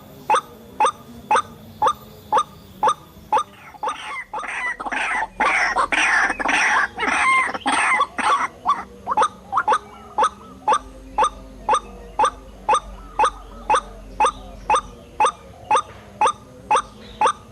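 White-breasted waterhen (ruak-ruak) call: short rising notes repeated evenly, about two a second. From about 4 to 8 seconds in, a louder, rough, noisy flurry with higher gliding calls overlaps the calls.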